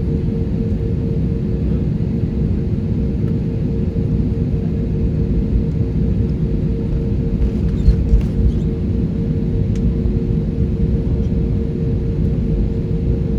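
Aircraft engine noise as heard inside the passenger cabin: a steady low rumble with a constant hum, holding the same pitch throughout. A few faint ticks come about two-thirds of the way through.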